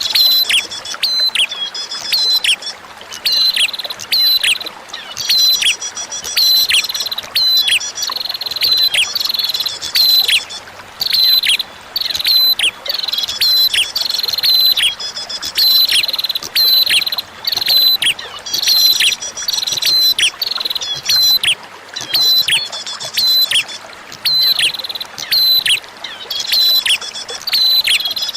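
Prinia calls repeated rapidly, sharp high notes with quick downward sweeps a few times a second and occasional higher trills, over a steady trickle of running water.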